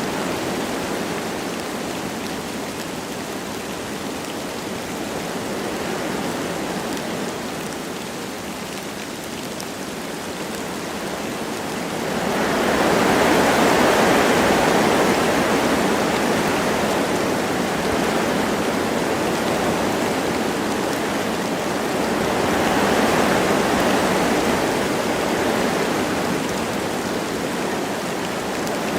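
Wind blowing through forest trees with light rain, a steady rushing noise. A gust builds sharply about twelve seconds in and holds, then surges again later.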